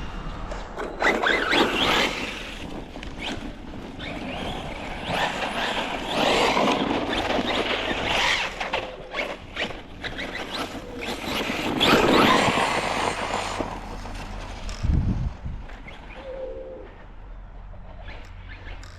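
Team Corally Kagama 6S brushless RC car being driven hard, its motor and tyres swelling and fading several times as the throttle is worked, with sharp knocks from the chassis hitting the ground.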